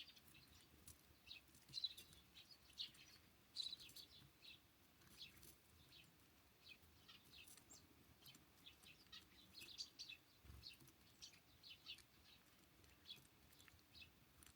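Small songbirds giving many faint, short, high chirps in quick succession.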